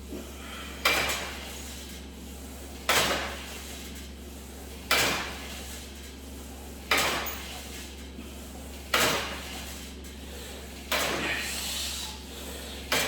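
Weight stack of an ab crunch machine, loaded to 90 lb, sliding and knocking once every two seconds, six times in all, one stroke per crunch rep.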